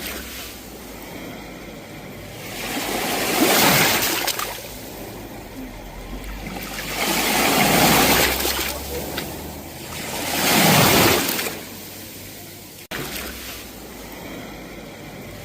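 Sea waves washing onto the shore, three surges about 4, 8 and 11 seconds in, each swelling into a rush of hiss and falling away.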